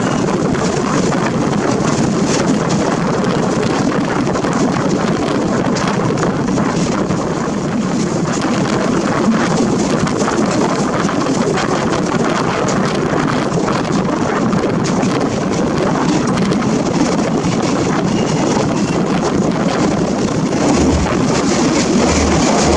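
Express passenger train running, heard from an open coach door: a steady rumble and rattle of wheels and carriages, with wind buffeting the microphone. Near the end the sound grows slightly louder, with a low pulsing throb, as the coach enters a tunnel.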